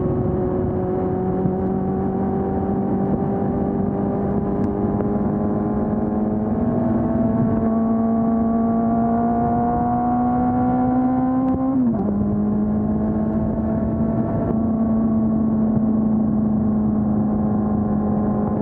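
Honda CB400 Super Four's inline-four engine with stock exhaust running under way, its pitch rising slowly for about twelve seconds. It then drops suddenly as it shifts up, and holds steady.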